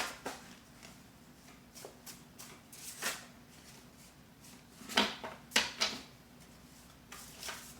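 Oracle cards being handled during a reading: a few short flicks and taps over quiet room tone, with three close together a little past the middle.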